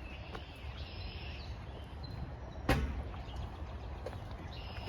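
Outdoor woodland ambience: a steady low rumble, with faint bird chirps early on and again near the end, and a single sharp knock a little under three seconds in.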